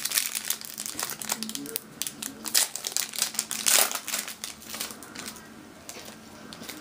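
Plastic-foil wrapper of a trading-card pack crinkling as it is opened and handled, dense for the first four seconds or so and thinning out after about five seconds.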